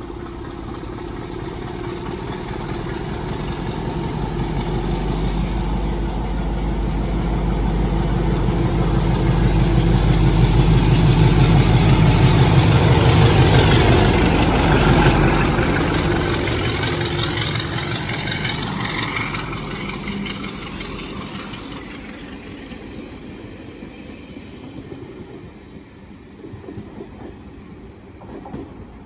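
Diesel train approaching and passing, its engine and wheels building to a peak about halfway through, then fading away.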